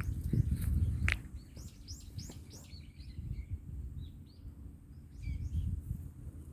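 Wind buffeting the microphone in gusts, a low rumble that swells about half a second in and again near the end, with small songbirds chirping and twittering throughout and one sharp, clear call about a second in.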